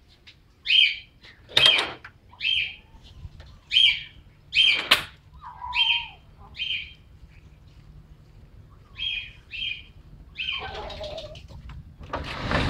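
A bird chirping: short, high calls repeated every half second to second or so. Near the end, a loud rattle starts as a metal roll-up shed door is opened.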